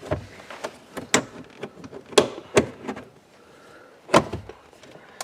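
Plastic centre-console trim of a 2010 Ford Mustang being pried and popped loose: a series of sharp clicks and knocks as its clips let go.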